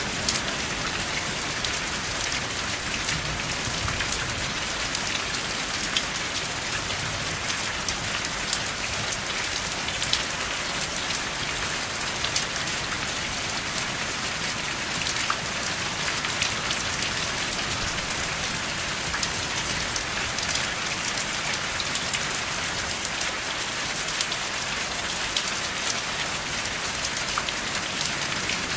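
Steady rain falling without thunder: a dense, even hiss with scattered sharper ticks of individual drops.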